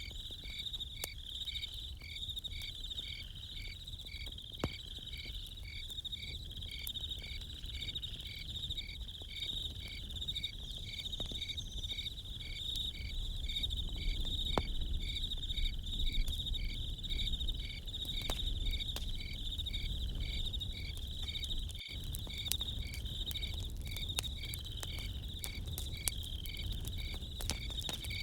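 Crickets chirping in a steady even rhythm over a continuous insect trill, with scattered sharp pops and crackles from a campfire, more frequent near the end.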